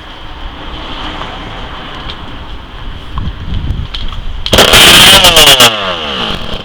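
Kawasaki KX125's 125 cc single-cylinder two-stroke engine, run without a carburetor, fires with very loud cracking bangs for a little over a second about four and a half seconds in, then dies away, its revs falling fast.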